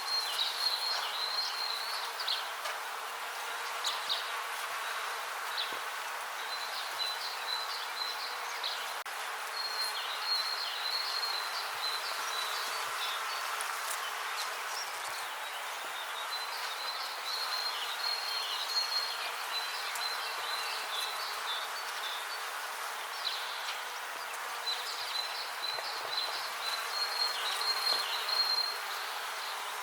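Bees buzzing steadily in a continuous drone, with spells of high, rapid chirping that come and go every few seconds.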